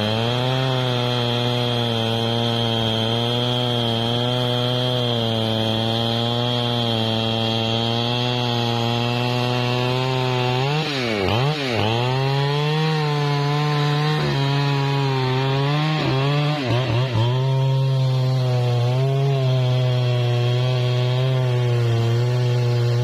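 Husqvarna 3120 XP chainsaw's big two-stroke engine running at high revs while cutting trembesi wood, its pitch wavering under load. Twice the revs drop sharply and pick up again, about halfway through and a few seconds later.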